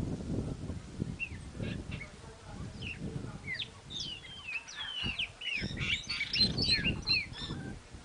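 Several birds calling with short, quick chirps that sweep up and down in pitch. The chirps grow busiest about six to seven seconds in. Rough, low-pitched noise comes and goes underneath.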